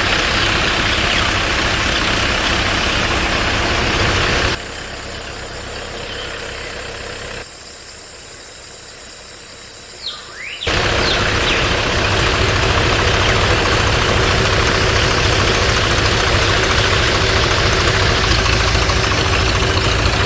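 Small engine running steadily with a fast even beat. About four seconds in, the sound drops abruptly to a much quieter level, then jumps back to full level after about six seconds.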